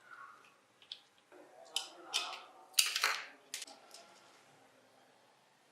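A handful of sharp clicks and short scraping strokes, the loudest about three seconds in, from small objects being handled or worked by hand.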